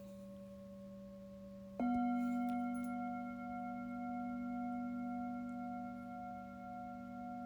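Tibetan singing bowls ringing. One bowl's tone is still sounding, and about two seconds in a second, higher-pitched bowl is struck and rings on steadily with a slow waver.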